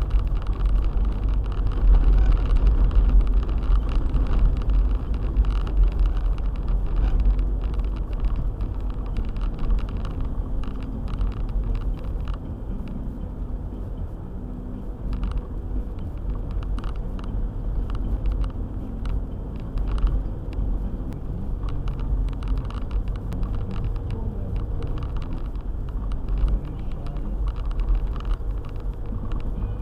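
A car driving on a snowy road: a steady low rumble of engine and tyres, with frequent small knocks and ticks throughout. It is a little louder in the first ten seconds or so.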